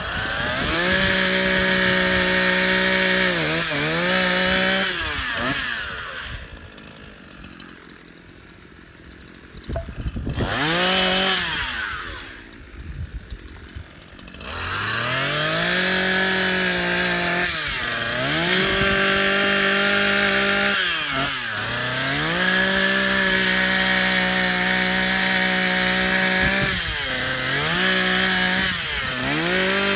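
Engine running at high revs with a steady pitch that sags and recovers several times as it takes and sheds load. It drops away twice for a few seconds, then spins back up.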